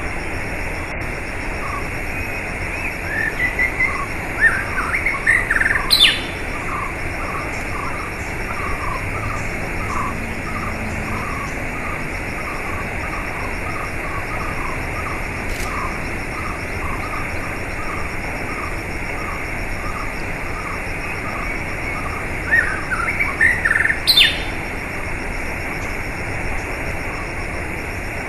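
Steady rush of flowing water with small birds chirping over it. A burst of quick chirps comes about three seconds in and again near the end, with a run of short, evenly repeated chirps in between.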